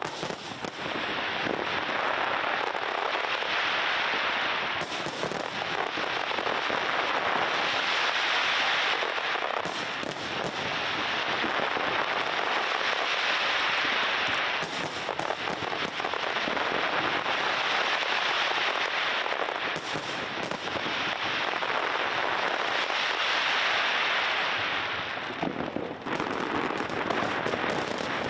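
Aerial fireworks crackling densely, a continuous mass of tiny pops that swells and eases in waves every few seconds, with an occasional sharper bang.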